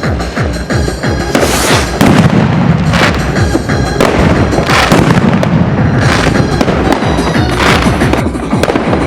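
Fireworks going off: a series of loud bangs, several with a long rushing tail, over background music with a steady bass line.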